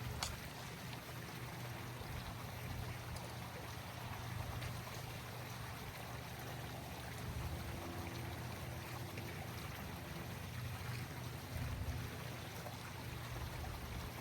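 Steady running water with a low, even hum beneath it.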